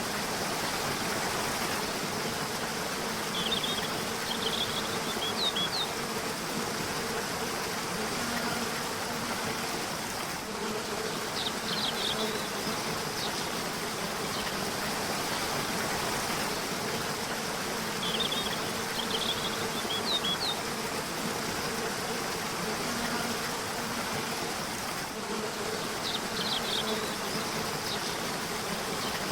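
River water rushing steadily, with short clusters of high bird chirps coming back about every seven or eight seconds and a faint low buzzing hum underneath.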